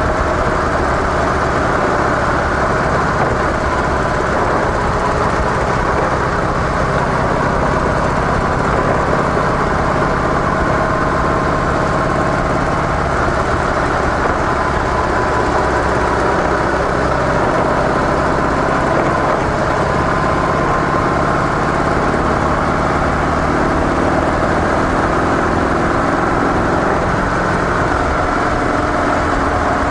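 Harley-Davidson CVO Softail Deluxe's air-cooled Twin Cam 110 V-twin running steadily through its stock mufflers while riding, its note drifting only slightly up and down.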